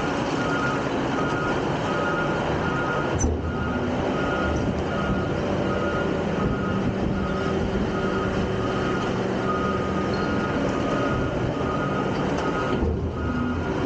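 Garbage truck engine running with a backup alarm beeping steadily in an even on-off rhythm, and one sharp knock about three seconds in.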